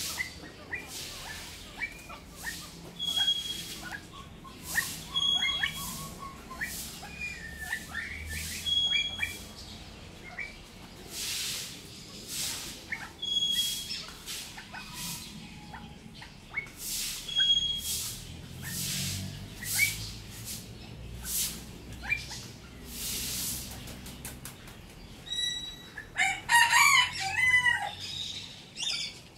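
Birds calling: a short call repeated every couple of seconds, many short chirps in between, and a loud harsh call about three seconds before the end.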